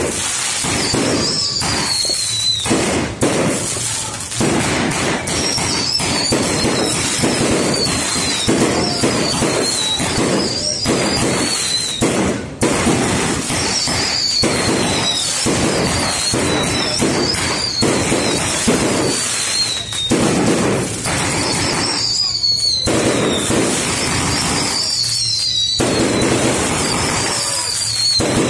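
Loud aerial fireworks going off in quick succession: a dense, continuous crackle of bangs and pops, with short falling whistles recurring every second or two.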